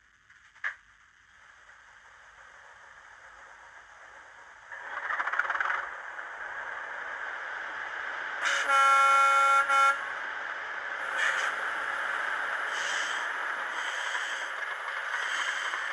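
Sound decoder in an N gauge model Class 37 diesel locomotive playing its diesel engine sound through the model's small speaker, building up over the first few seconds, then running steadily. About eight and a half seconds in, the decoder sounds the locomotive's horn once, for about a second and a half.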